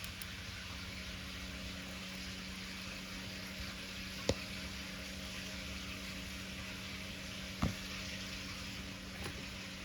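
Wood bonfire burning with a steady hiss and two sharp pops, about four seconds in and near eight seconds.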